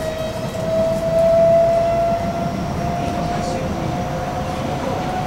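Kawasaki-CRRC Sifang C151C train's IGBT-VVVF traction inverter whining, one tone rising slowly, over the steady low rumble of the running train, heard inside the passenger car.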